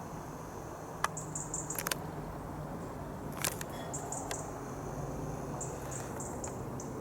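High, short chirps in runs, typical of small birds, over a steady low outdoor rumble, with a few sharp clicks about one, two and three and a half seconds in.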